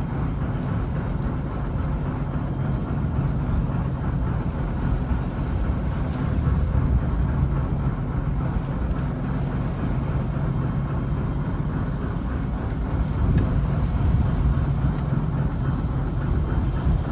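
A fishing trawler's engine running steadily, a constant low drone.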